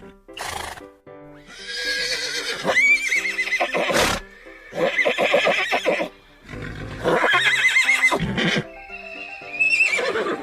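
Horse neighing several times, each whinny with a quavering, shaking pitch, over steady background music.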